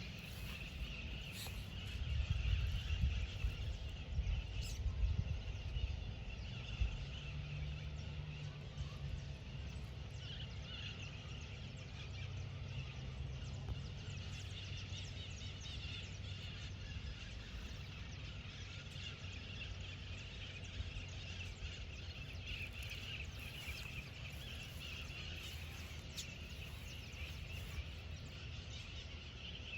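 Birds calling outdoors: a steady chorus of chirps, with louder low rumbling for the first several seconds.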